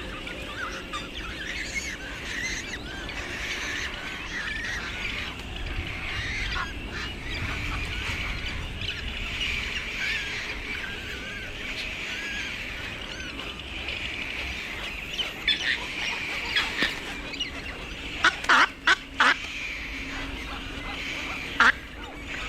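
Many birds chattering continuously, broken by loud harsh squawks: a few about two-thirds of the way in, a quick run of four a little later, and one more near the end.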